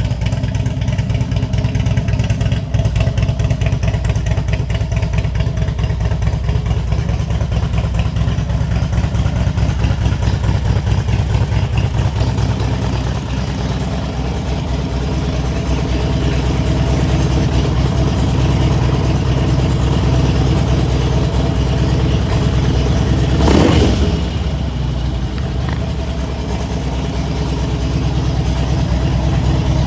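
2003 Harley-Davidson Electra Glide Classic's V-twin engine idling steadily, with one short throttle blip about three-quarters of the way through.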